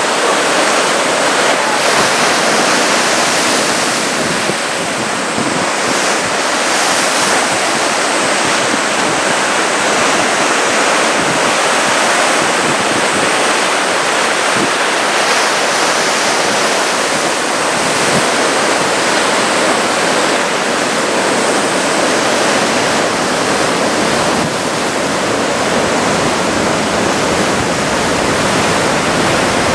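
Ocean surf breaking on the shore, a steady loud rush of waves.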